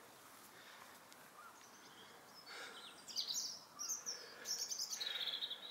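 Birds singing outdoors: faint background hiss, then several short, high chirping phrases start about two and a half seconds in and grow louder toward the end.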